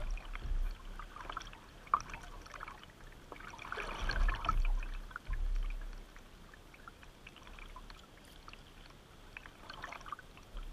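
Water splashing and trickling around a kayak, in scattered small splashes with a louder one about four seconds in.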